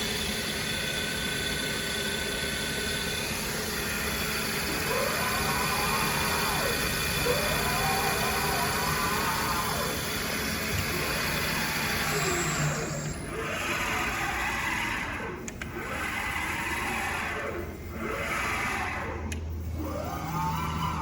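Fryer CNC bed mill running, its spindle turning at about 1500 rpm with a steady hum. From about four seconds in, the axis drives move the table on its ball screws, giving repeated whines that rise and fall in pitch as each move speeds up and slows down.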